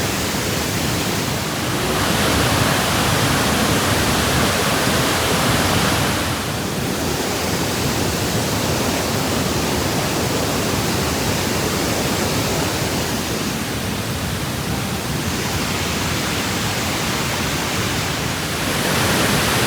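Waterfall's rushing water: a loud, steady hiss of falling water, shifting in level a few times.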